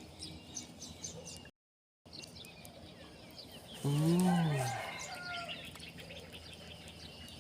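Birds chirping and trilling in the background, with one loud, low call about four seconds in that rises and falls in pitch over about a second. The sound cuts out completely for about half a second near the two-second mark.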